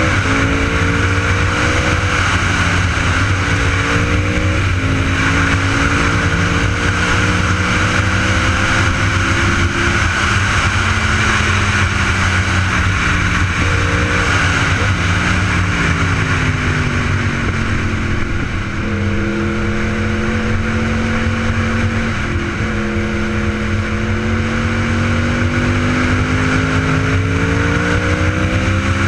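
Sport motorcycle engine under way, its pitch climbing and stepping back down at each gear change, easing off and falling for a few seconds mid-way before pulling through the gears again, over a steady rush of wind and road noise.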